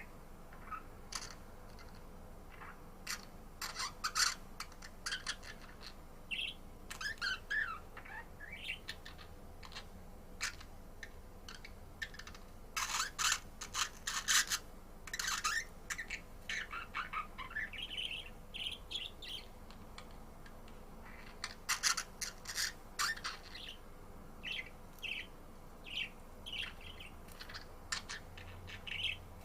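Budgerigar chattering: a run of short, rapid chirps and scratchy squawks in irregular bursts, busiest in a few clusters.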